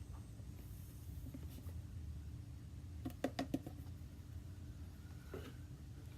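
Low steady hum of a quiet room, with a quick run of about four light clicks a little past halfway and a soft knock near the end.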